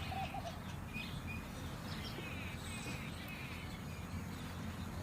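Birds calling outdoors: repeated short high chirps throughout, with a few quick lower arched notes near the start, over a steady low background rumble.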